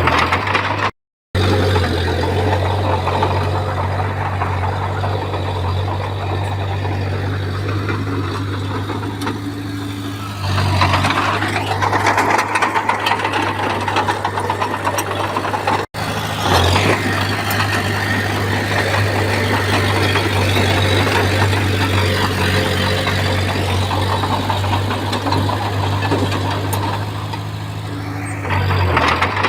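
Komatsu bulldozer's diesel engine running under load while it pushes soil and stone, with a steady low note. The engine picks up about a third of the way in and again around halfway. The audio drops out for a moment three times at edits.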